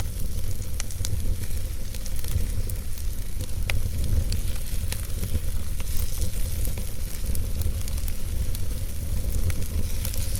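Wood fire in a fireplace, logs burning with irregular crackles and pops over a steady hiss, and a steady low rumble underneath.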